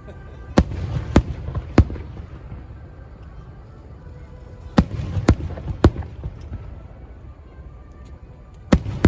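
Aerial fireworks shells bursting in sharp bangs, three in quick succession about half a second apart, then three more about three seconds later, and a third burst near the end, with a low rumble of echoes between the bangs.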